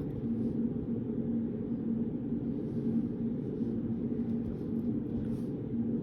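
Steady low hum of a study room's background noise, unchanging throughout, with a faint higher rustle about five seconds in.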